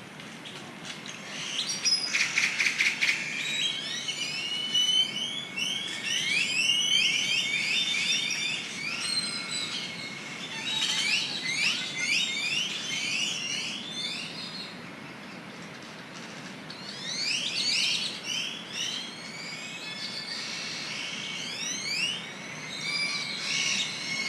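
A dense dusk chorus of many birds calling at once: overlapping short chirps, whistles and quick chattering trills, over a steady low rush of ocean surf.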